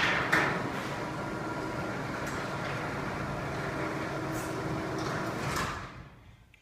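Two LiftMaster garage door openers running together, closing two garage doors: a steady motor and door-travel rumble with a few clanks near the start. The noise stops about six seconds in.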